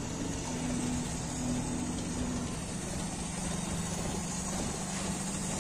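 Premier Padmini's four-cylinder engine idling steadily, running on its freshly fitted carburettor kit.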